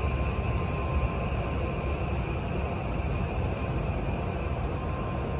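Onboard running sound of an Odakyu 1000-series renewed electric train slowing into the terminus platform: a steady low rumble of wheels on rail, with a faint, steady high whine.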